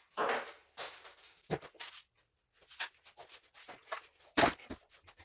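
Irregular knocks, clicks and rustles of objects being handled, with quiet gaps between them; the loudest knock comes near the end.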